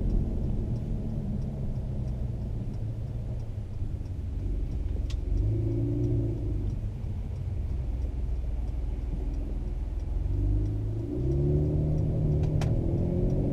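2017 Mercedes-AMG C43's twin-turbo V6 and performance exhaust heard from inside the cabin, droning while driving and rising in pitch as the car accelerates, about five seconds in and again after ten seconds. Two sharp clicks cut through, about five seconds in and near the end.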